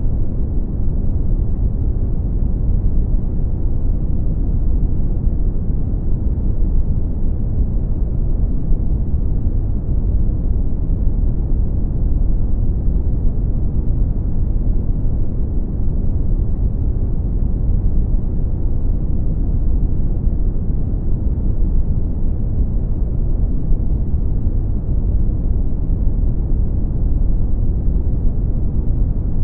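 Brown noise: a steady, deep rumbling hiss with most of its energy in the bass, unchanging throughout.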